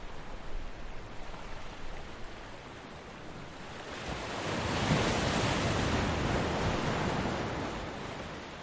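Ocean surf: a wave builds about four seconds in, breaks and washes in, then fades away near the end. Uneven low buffeting is heard in the first couple of seconds.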